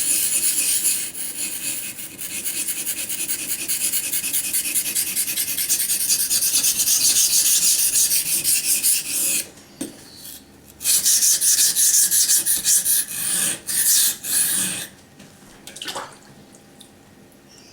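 SOG Flash II's AUS-8 steel blade scraped back and forth on a Naniwa Chosera waterstone, a steady run of quick rasping strokes as the chipped edge is ground out. The strokes stop about nine and a half seconds in, start again a second later, and end around fifteen seconds, leaving only a few faint scrapes.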